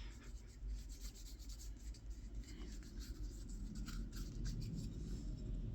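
Linseed oil being rubbed by hand onto a wooden spoon: faint, irregular light rubbing and small scratchy sounds over a steady low hum.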